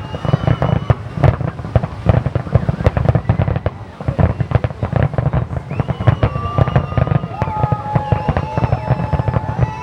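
A fireworks display going off in rapid succession: a dense stream of bangs and crackling with deep booms underneath. Held high whistling tones come in now and then, more of them in the second half.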